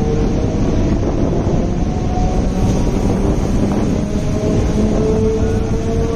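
Electric suburban train (EMU) running and gathering speed out of a station, heard from an open doorway: a steady rumble of wheels on track with wind buffeting the microphone and a faint whine coming and going over it.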